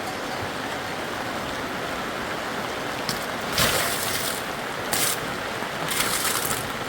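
Steady rushing noise like running water, with three short, louder swishes in the second half.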